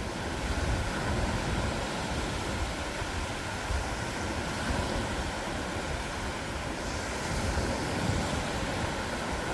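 Ocean surf washing onto a beach, a steady rushing hiss with gentle swells in level and a low rumble underneath.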